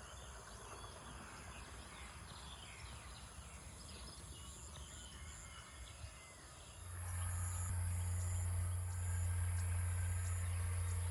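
Dawn countryside ambience: a steady high insect drone with scattered bird chirps. About seven seconds in, a steady low hum starts and becomes the loudest sound.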